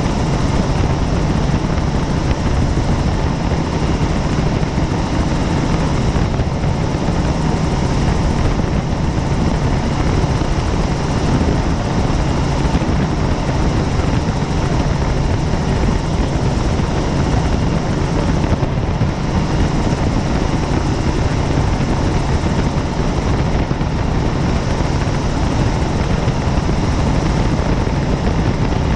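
Helicopter turbine and rotor running steadily in flight, heard from on board as a constant, loud drone with a low hum.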